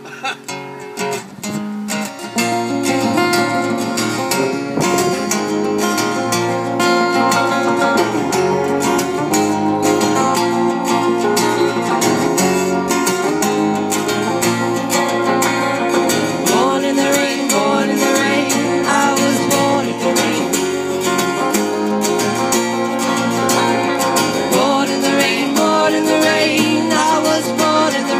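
Music: strummed acoustic guitar, getting louder about two seconds in.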